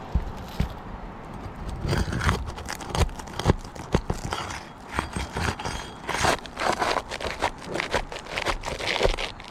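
A shingle strip being worked loose and pulled up: irregular scraping, crackling and tearing with many sharp clicks, starting about two seconds in.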